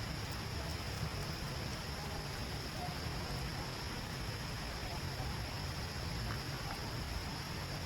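Steady background noise: a low rumble under a constant high hiss, with a few faint clicks and no distinct event.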